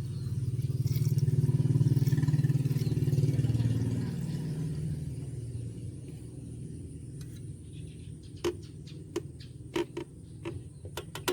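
Toyota Vios car engine running with a steady low rumble that swells for the first few seconds, then eases off. A series of sharp clicks comes near the end.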